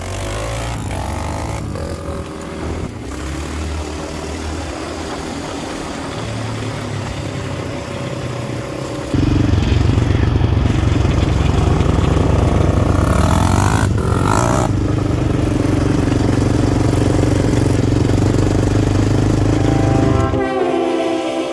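Off-road motorcycle engine running while riding a trail. It gets markedly louder about nine seconds in, with a brief rise and fall in pitch about two-thirds of the way through.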